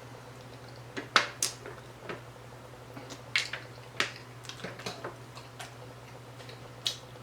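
Mouth noises from eating barbecue ribs close to the microphone: chewing and lip smacks heard as about ten sharp, wet clicks at uneven intervals, the loudest a little after a second in.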